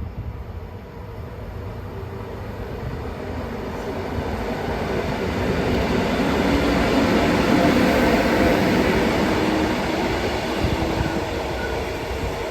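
A train passing on the line, its rumble growing louder to a peak about two-thirds of the way through and then slowly fading.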